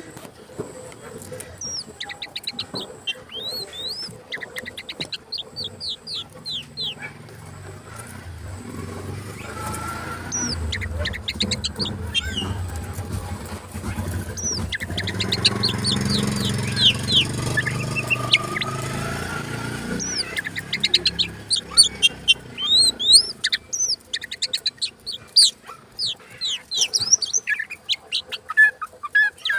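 Oriental magpie-robin (kacer) singing in rapid runs of high, sweeping whistled notes and chatter. A low rumbling noise swells under the song through the middle and fades again.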